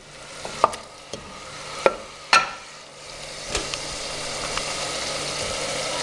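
Chicken pieces and grated onion frying in oil and butter in a pot, sizzling, while a wooden spoon stirs them and knocks against the pot several times in the first few seconds. The sizzle grows louder and steadier in the second half.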